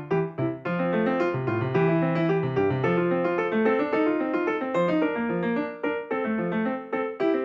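Background music played on piano, a steady run of notes with chords beneath.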